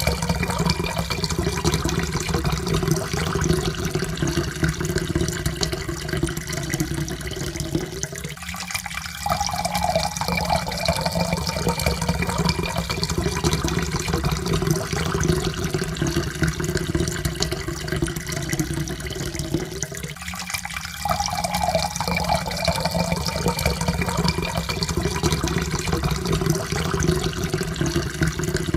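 Water pouring steadily into a cup, its tone rising in pitch as the cup fills. The pour breaks off briefly and starts again twice, about 12 seconds apart.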